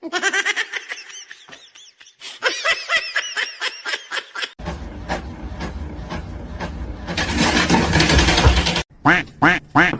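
An animal calling in a rapid string of short, pitched calls, several a second. Midway through, a loud rushing noise takes over, and the calls return near the end.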